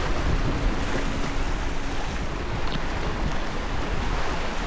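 Steady wind buffeting the microphone over the wash of waves on a rocky shore.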